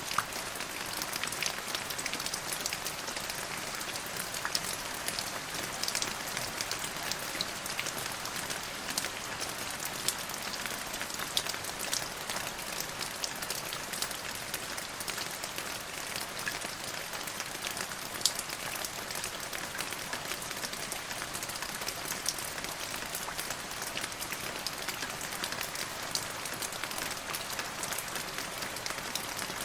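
Steady rain falling, an even hiss of many drops with scattered sharper individual drop ticks.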